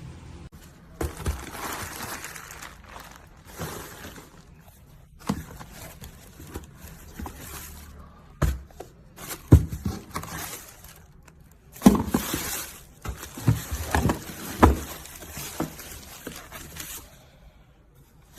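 Handling noise: irregular rustling, as of plastic packaging or a braided cable being handled, broken by several sharp knocks and clicks as objects are picked up and set down.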